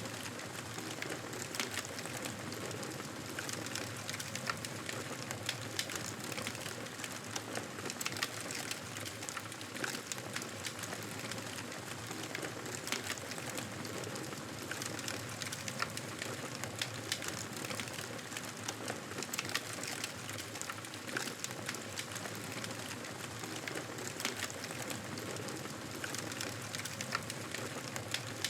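Wood fire crackling in a fireplace: a steady hiss with frequent small, sharp pops and snaps scattered irregularly throughout.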